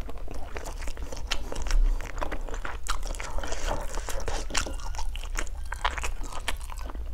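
A person chewing a mouthful of chicken stir-fried with lemongrass and chili, with many small mouth clicks.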